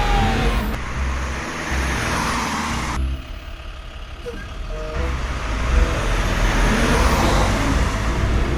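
A truck engine running, with a steady low rumble that drops away for about two seconds near the middle and then returns.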